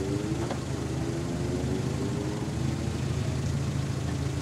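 Small hatchback's engine idling steadily.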